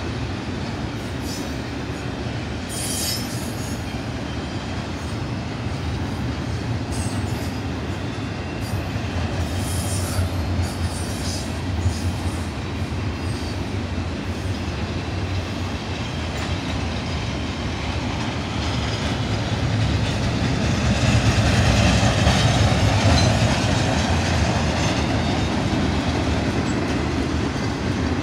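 Double-stack intermodal well cars of a freight train rolling past at speed: a steady rumble of steel wheels on rail, with a few brief high screeches from the wheels. The sound swells for several seconds about three-quarters of the way through.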